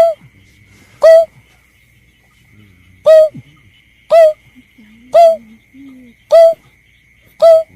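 Bird-lure recording of the berkik (belkek) call: a short, clear pitched note repeated seven times, about once a second, with one longer pause near the start. A steady, faint high-pitched whine runs beneath the calls.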